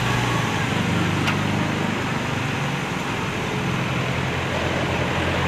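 Truck crane's diesel engine running steadily with a low, even hum.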